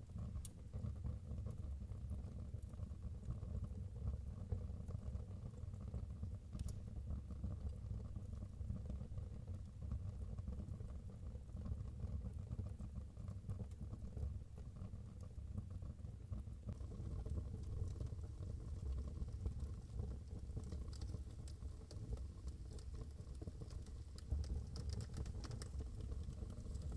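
Wood fire burning in a fireplace: a steady low rumble with a few sharp pops, and more frequent small crackles near the end.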